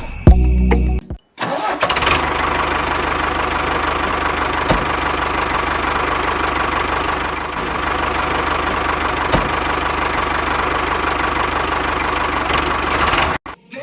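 A motor running steadily, with a faint steady whine over an even mechanical noise. It starts about a second and a half in and cuts off abruptly near the end.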